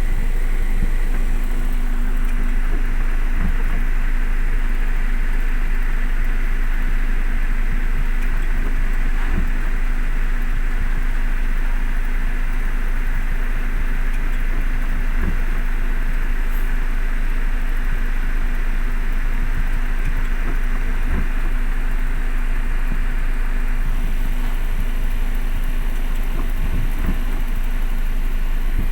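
Crane truck driving through heavy rain: a steady low engine rumble under the hiss of the rain, with a few faint knocks.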